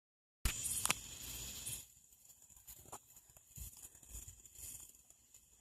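A burst of rustling, crackling noise with a sharp click, lasting about a second and a half. It then drops to faint background hush with a thin, steady high tone and a few soft ticks.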